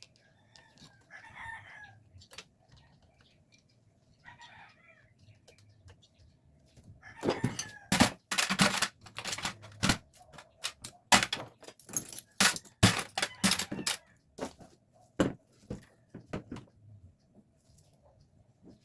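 Sharp metal clinks and knocks of hand tools in a quick, irregular run lasting several seconds, starting about seven seconds in, as a rebuilt carburetor is bolted back onto the engine. Two short, faint calls come before it.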